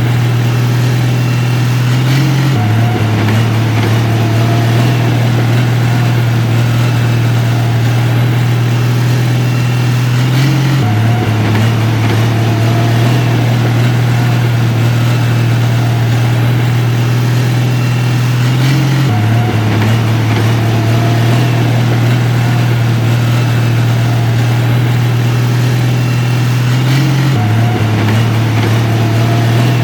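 Heavy construction machine's diesel engine running steadily with a loud low drone. The pitch steps down slightly about every eight seconds and then comes back up.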